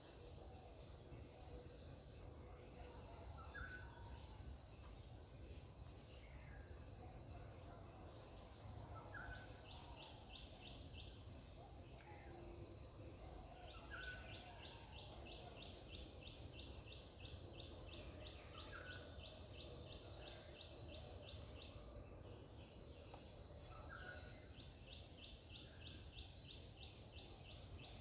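Faint outdoor ambience: a bird gives a short chirp about every five seconds over a steady high insect drone, with several stretches of rapid pulsing trills and a low rumble underneath.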